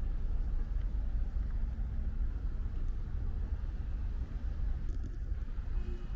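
Outdoor ambience in light rain: a steady low rumble with a faint hiss above it.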